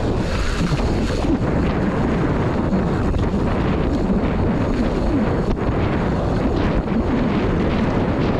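Wind buffeting the microphone of a camera riding on a downhill mountain bike: a steady heavy rumble, with a few faint knocks about a second in and near the middle.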